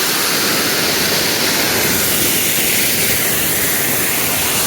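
Waterfall crashing into a rocky pool: a loud, steady rushing roar of falling water.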